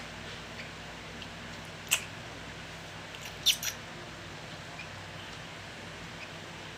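Nestling birds giving short, sharp, high begging squeaks while being hand-fed: one about two seconds in and a quick pair about a second and a half later, over a steady low hum.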